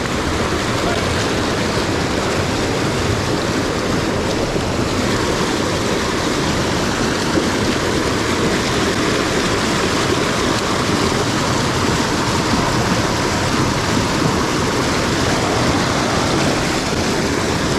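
Mountain headwater stream rushing: a steady, loud wash of water.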